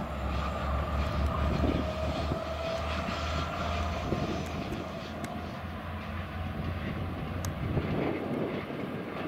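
Talgo passenger train hauled by a diesel locomotive, running through a tight curve and moving away. A steady low engine drone weakens over the first few seconds, under a faint steady whine and rolling noise from the train.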